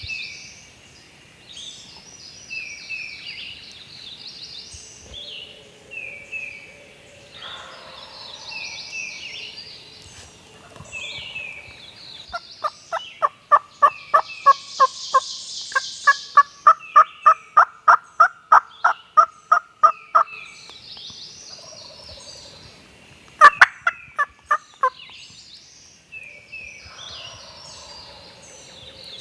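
Wild turkeys gobbling repeatedly, with songbirds singing throughout. Near the middle comes a long, loud run of about twenty evenly spaced turkey yelps, two or three a second, and a sharp loud call with a few quick notes follows a few seconds later.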